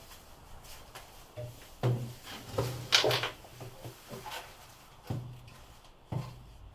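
A revolver being handled at a wooden table: a run of metallic clicks and wooden knocks, loudest about two to three seconds in, then two single knocks near the end.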